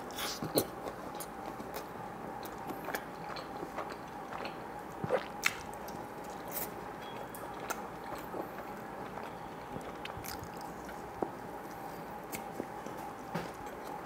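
Close-miked chewing of a bite of Chicago deep-dish pizza, with irregular wet clicks and smacks of the mouth, a few louder ones around half a second and five seconds in. A steady electric fan hum runs underneath.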